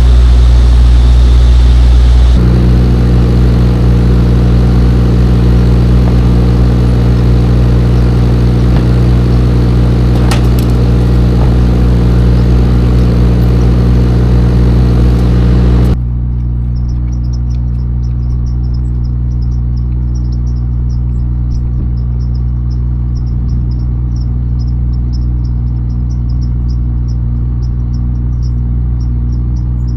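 Semi-truck diesel engine running with a steady low hum. About halfway through, the hiss over it cuts off suddenly, leaving the engine and insects chirping in a fast, even rhythm.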